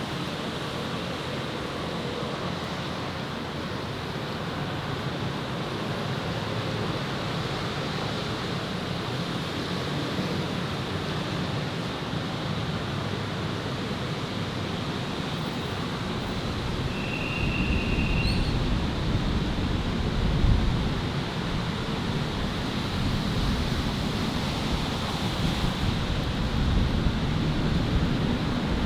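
Steady city street ambience: a constant wash of traffic noise. From about 17 seconds in, a heavier low rumble with gusty surges comes in, and a short, steady high tone sounds about the same time.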